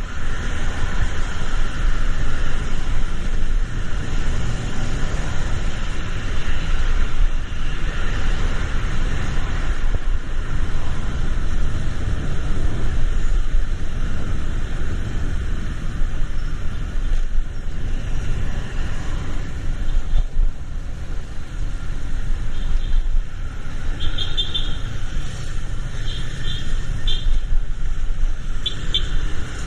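Road traffic in the rain: a steady low rumble of passing cars with a continuous hiss. A few short high chirps sound near the end.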